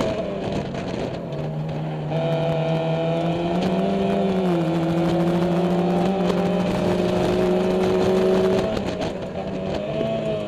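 Mazda MX-5 race car's four-cylinder engine heard from inside the cockpit, running hard at high revs. The note rises slightly about two seconds in, holds mostly steady with a small dip around the middle, then drops near the end.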